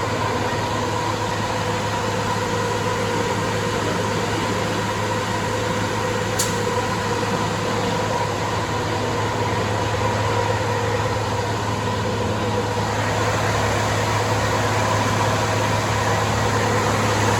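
Cat C15 diesel engine in a Kenworth W900 running steadily on a chassis dyno: a constant, unchanging drone with a low hum. There is one brief click about six seconds in.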